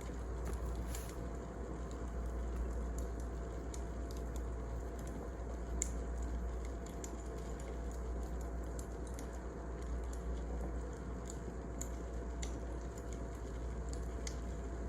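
Wood fire burning, with a steady low rumble and scattered small crackles and pops, one a little louder about six seconds in.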